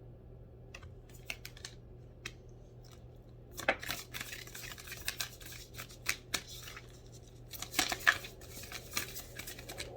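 Oracle or tarot cards being handled and shuffled: a run of papery rustles and sharp snaps, sparse at first, then busy from about three and a half seconds in.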